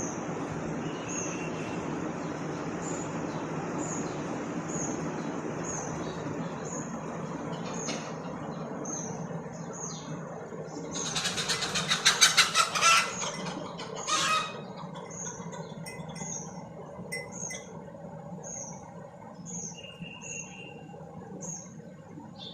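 A small bird chirping about once a second over a steady low background rumble. About halfway through comes a loud, harsh, rapidly rattling burst lasting about two seconds, then a shorter one.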